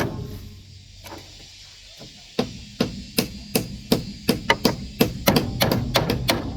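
A hand tool striking wood in a quick steady rhythm of sharp knocks, about three a second, pausing for about two seconds near the start before the strikes resume.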